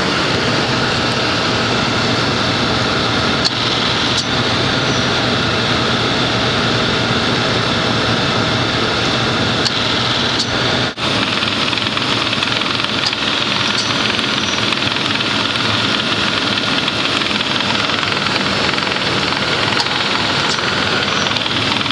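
A 1995 Lincoln Town Car's 4.6-litre V8 idling steadily with the air conditioning running while the system is charged with R-134a. The sound breaks off for a moment about halfway through.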